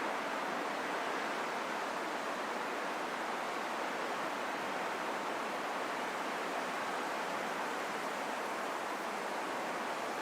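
Steady, even rushing of wind, with no gusts, whistling tones or other events and little deep rumble.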